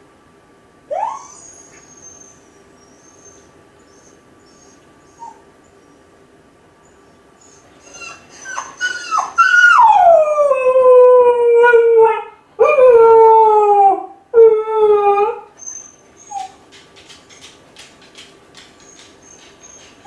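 Kai Ken dog howling while left home alone, a lonely separation howl. A short rising yelp about a second in, then from about eight seconds a few yips build into a long howl that slides down in pitch, followed by two shorter falling howls.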